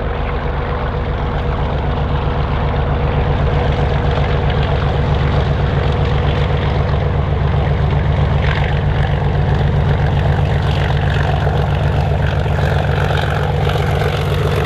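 Diesel locomotive engine running with a steady, heavy low throb and a held tone above it, growing a little louder over the first few seconds.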